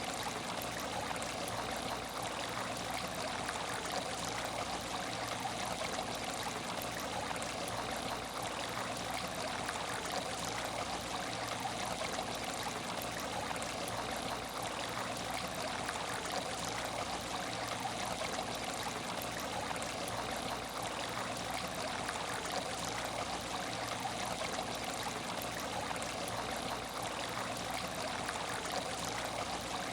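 Aquarium tank water trickling and splashing steadily, with a faint low hum underneath.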